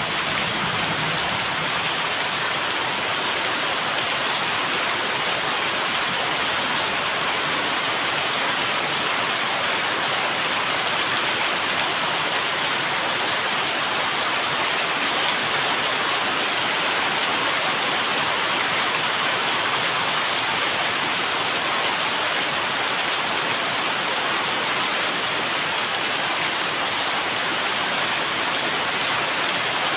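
Steady rain falling, an even, unbroken hiss of rain.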